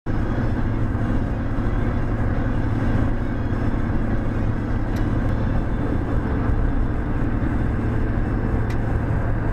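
Car travelling at highway speed: steady engine and tyre-on-road noise with a constant low hum, and two faint clicks.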